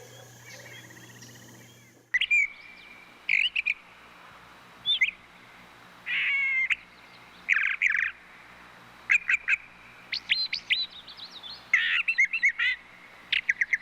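A bird calling repeatedly in short, sharp, high chirps and brief trills, in bursts of one to several notes. About two seconds in, a different, steadier animal sound cuts off abruptly and the chirps begin.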